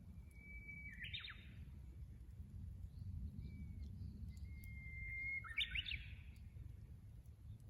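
Japanese bush warbler singing its hoo-hokekyo song twice. Each song is a long held whistled note, then a quick flourish that jumps up and falls back.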